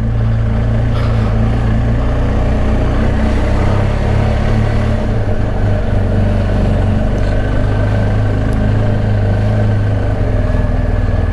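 BMW R1250 GS Adventure's boxer-twin engine running steadily as the motorcycle sets off, its note shifting about four seconds in.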